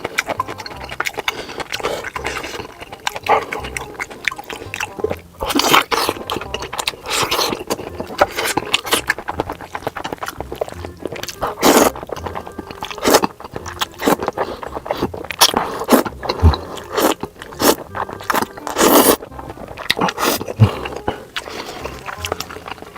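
Close-miked eating of jjajangmyeon noodles in black bean sauce: wet slurps and chewing, in quick irregular clicks with a few longer slurps.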